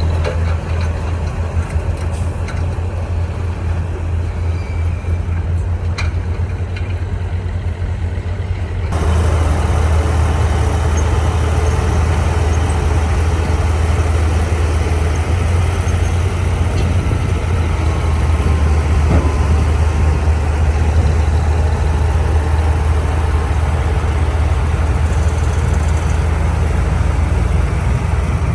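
Diesel engine of a bulldozer running steadily, its low hum constant; the sound gets suddenly louder and fuller about nine seconds in.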